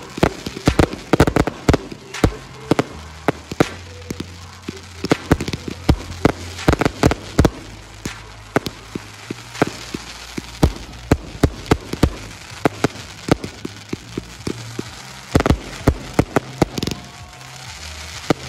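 Category 2 fireworks display: a dense, uneven string of sharp bangs over continuous crackling.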